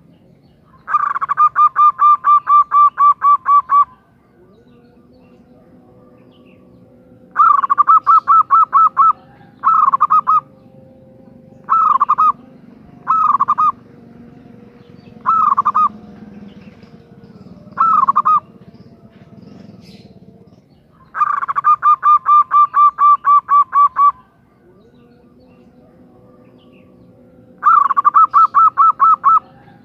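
Female zebra dove (perkutut) calling: bursts of rapid staccato notes, about five a second. Long runs of about three seconds open and close the stretch, with several short bursts between them.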